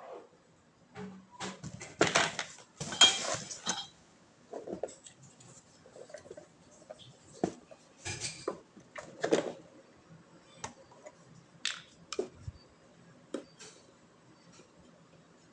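Irregular clinks and clatter of metal bike parts and tools being handled during assembly, with the loudest, busiest rattling about two to four seconds in and scattered single clicks after.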